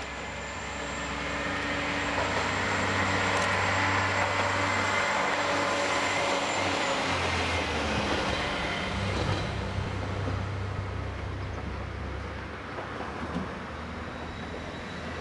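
A train running past on the track, its noise swelling over the first few seconds and then slowly fading, with a steady low hum underneath.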